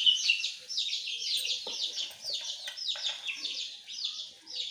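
Many small birds chirping continuously, a dense run of short, high, falling chirps, with a few light knocks about halfway through.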